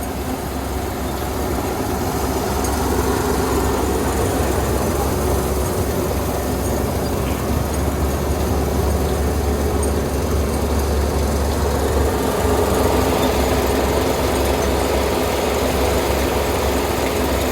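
Kubota ER470 combine harvester's diesel engine running steadily, growing a little louder after about two seconds.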